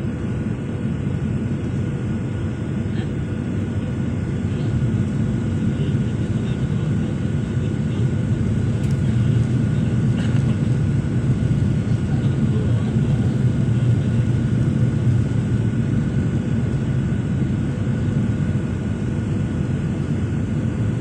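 Steady drone of an airliner heard from inside the passenger cabin: engine and airflow rumble, mostly low, with a few faint steady whining tones above it.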